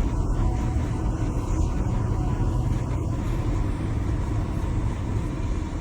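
Steady low rumble with most of its weight in the bass and a faint steady tone above it, fading out near the end.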